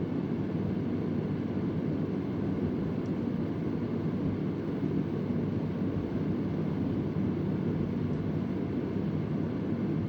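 Vintage Convair oscillating fan running: a steady, low whooshing rush of air from its blades and motor. A faint tick sounds about three seconds in, part of an irregular background ticking whose source is unknown.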